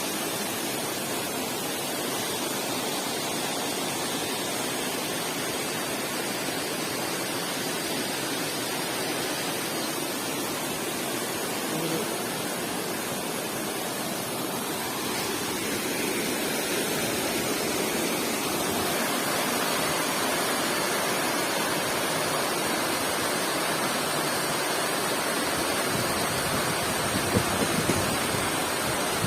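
Waterfall rushing: a steady, even wash of falling water, a little louder in the second half.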